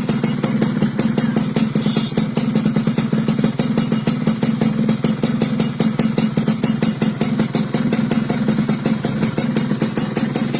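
Yamaha F1ZR's two-stroke single-cylinder engine idling steadily through a modified exhaust, with a crisp, crackling note made of rapid, even pulses.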